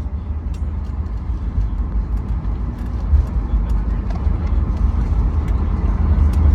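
Low, steady rumble inside an airliner cabin as the jet rolls along the ground after landing, growing gradually louder toward the end.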